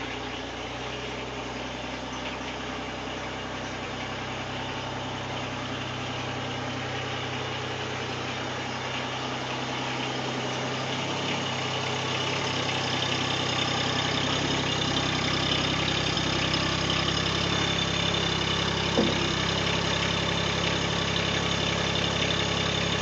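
Mahindra eMax 20S HST compact tractor's diesel engine idling steadily, growing gradually louder. A single brief sharp sound stands out about three-quarters of the way through.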